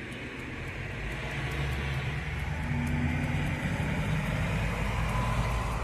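A motor vehicle going by, its engine hum and rushing noise growing steadily louder.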